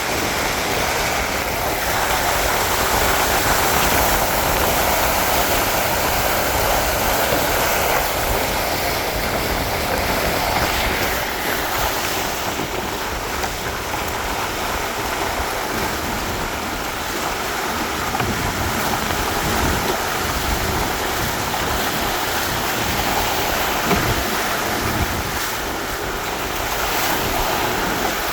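Water rushing and splashing along the hulls of a Windrider 17 trimaran sailing fast, with wind buffeting the microphone. A single brief knock comes about three-quarters of the way through.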